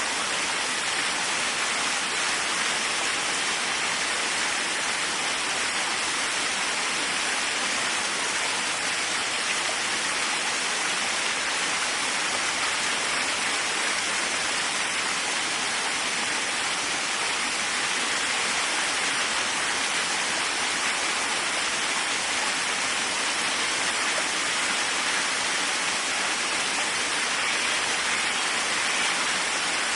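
Waterfall, a steady, even rush of falling water with no pauses or changes.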